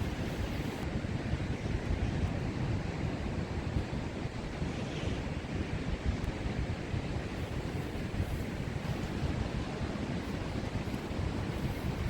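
Wind buffeting the microphone over ocean surf: a steady rushing noise, heaviest in the low rumble.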